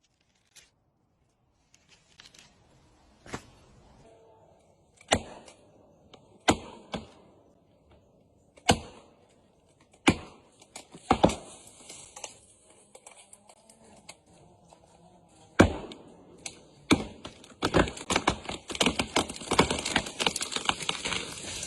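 Sharp knocks and cracks at irregular intervals, often a second or more apart, turning into a denser, louder crackle near the end.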